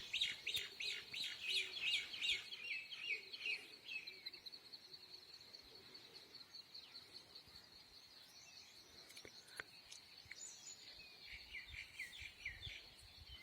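Wild birds chirping in quick trilling runs, busiest in the first four seconds and again near the end, over a faint steady high-pitched whine.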